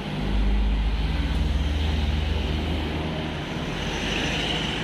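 Steady low engine hum of motor traffic on the road, mixed with wind and road noise on the microphone.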